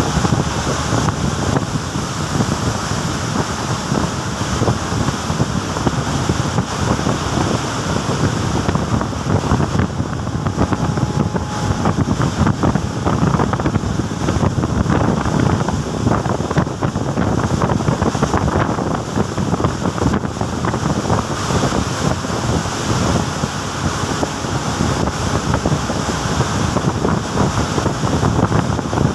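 Strong open-ocean waves surging and rushing, with wind buffeting the microphone in a steady, heavy rush of noise.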